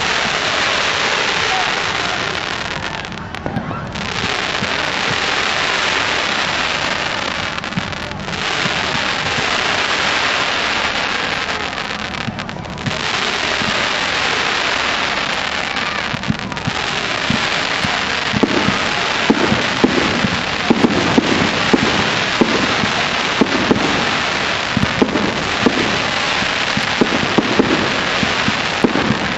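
Fireworks display: dense crackling that sounds like rain, renewed every few seconds, with a run of quick sharp bangs from about two-thirds through.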